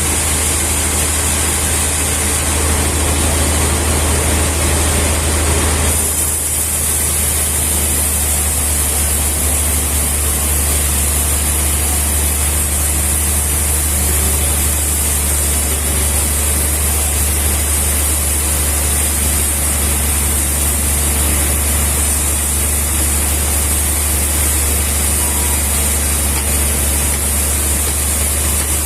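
Steady running of a machine engine: a constant low drone with a hiss above it, shifting slightly about six seconds in.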